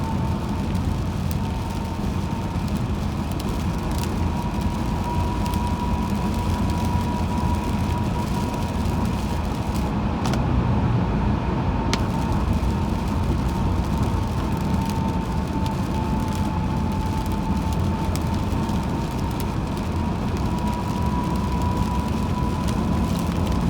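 Car driving along a highway: steady road and tyre rumble with a thin, steady whine and scattered faint ticks.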